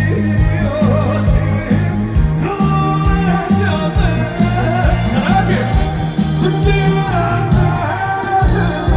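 Live trot band music with a steady beat and bass, with a male lead vocal singing over it that comes in more strongly a couple of seconds in.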